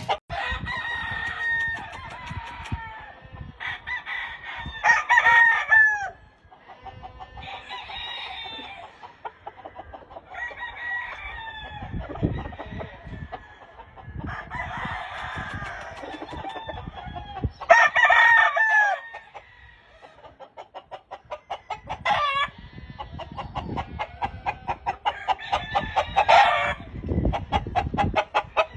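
Several Giro grey gamecocks crow one after another, a crow every few seconds, with clucking in between. In the second half a run of regular ticks, about two or three a second, grows louder beneath the calls.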